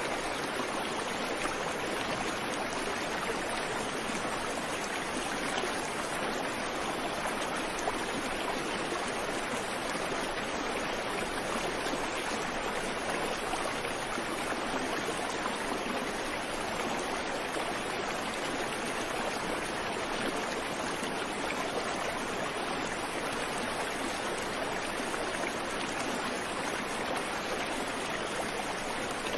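Creek water running over rocks, a steady, even rushing and babbling with no birdsong.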